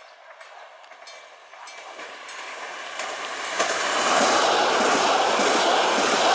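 Electric multiple unit train approaching and passing close by: a rushing noise of wheels on rail that builds from about two seconds in and is loud and steady from about four seconds, with one sharp click just before it peaks.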